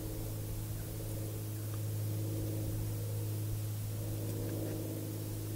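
Single-engine piston light aircraft, a Mooney 201, droning steadily overhead, its engine note swelling slightly about two seconds in and again near the end.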